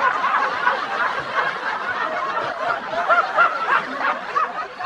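Several people laughing hard together, with snickers and chuckles overlapping.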